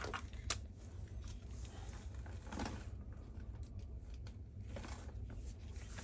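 A few light clicks and knocks of plastic vacuum-head parts being handled as the head is taken apart, over a steady low background hum.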